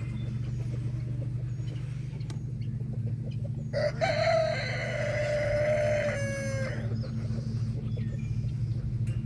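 A rooster crowing once, a single long crow of about three seconds starting about four seconds in. A steady low hum runs underneath.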